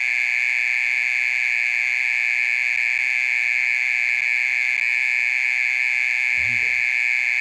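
Oriental mole cricket calling: a loud, continuous, high-pitched buzzing trill held at one steady pitch without a break.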